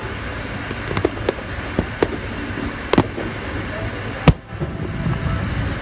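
Distant aerial fireworks bursting in a scattered series of sharp pops and bangs, the loudest a single crack about four seconds in, over a steady low background rumble.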